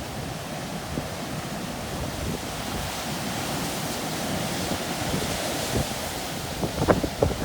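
Ocean surf washing in during coastal flooding, a steady rush that swells in the middle, with wind buffeting the microphone and a few sharp thumps near the end.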